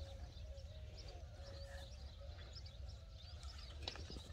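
Faint bird chirps over a low wind rumble, with a light click near the end.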